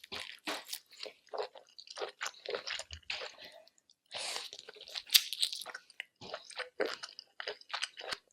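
Close-miked eating of seafood-boil food: wet chewing with crunching and squishing, in quick irregular bursts and a short pause about four seconds in.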